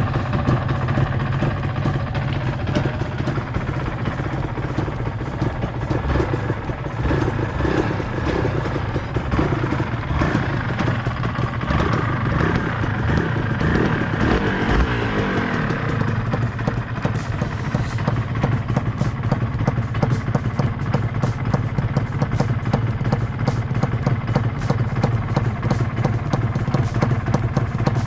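Two-stroke motorcycle engine running at a steady speed.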